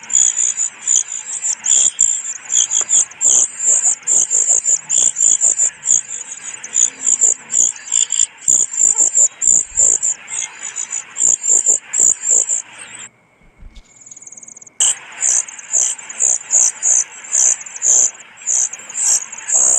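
Cuckoo chick begging: rapid, high-pitched, repeated calls, several a second. They break off for about two seconds just past the middle, then start again.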